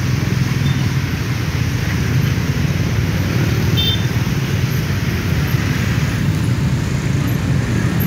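Dense motor scooter and motorcycle traffic moving off in a bunch: a steady low rumble of many small engines.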